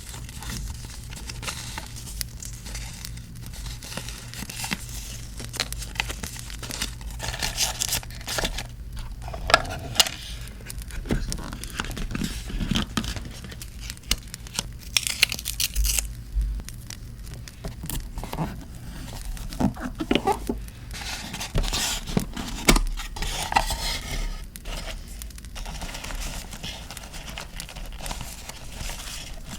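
Paper being handled for journal decorating: irregular crinkling, rustling and tearing of paper and postcards, with occasional sharp ticks and taps.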